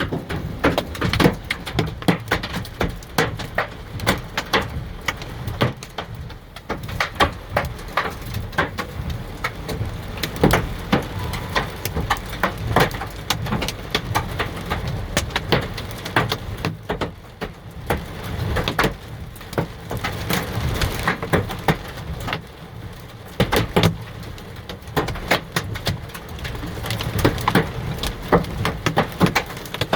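Hailstones and heavy rain pelting hard surfaces: a dense, irregular clatter of sharp hits over the steady hiss of the downpour.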